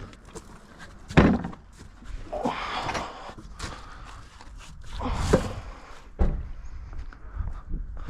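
Several heavy knocks and thuds with scraping in between, the loudest about a second in and two more around five and six seconds in: hands-on work on a car, handling wheels, tools or panels.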